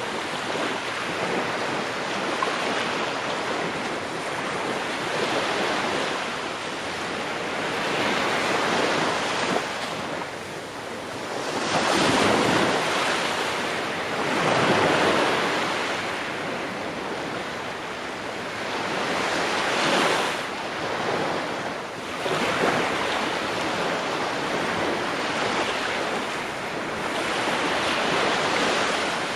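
Ocean waves breaking on the shore in a continuous wash, with a swell every few seconds and the loudest breakers about twelve and fifteen seconds in.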